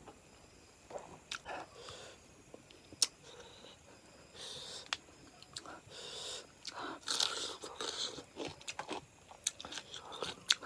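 Close-miked chewing of chicken curry and rice eaten by hand: a run of short, separate mouth noises, busier in the second half, with one sharp click about three seconds in.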